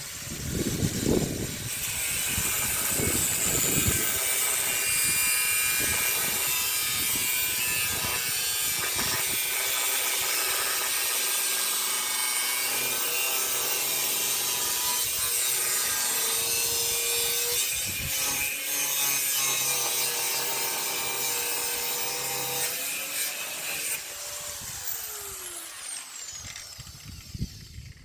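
A power saw cutting steadily for about twenty seconds, after a few knocks at the start. Near the end it winds down with a falling pitch as the motor slows.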